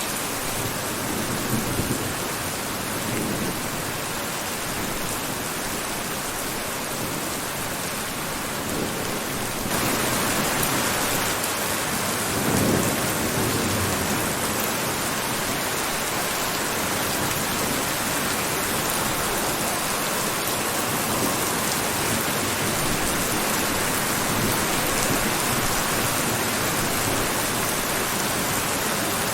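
Steady heavy rainfall, a dense hiss of falling rain, which gets louder and brighter about ten seconds in. A few brief low rumbles rise under it near the start and again about twelve seconds in.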